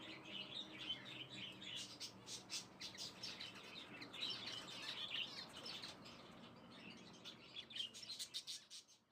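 Small birds chirping, many short overlapping chirps in quick, irregular succession.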